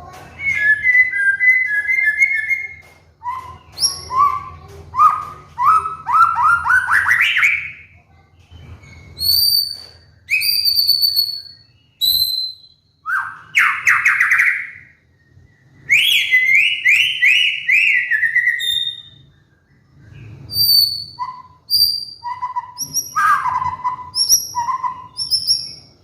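White-rumped shama (murai batu) singing: a varied series of loud clear whistled phrases, including a held two-note whistle, runs of notes rising in pitch, quick descending repeated notes and short high whistles, separated by brief pauses.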